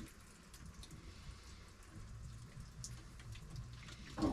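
Faint dripping and trickling water with scattered small ticks, from rinsing while a salmon is being cleaned.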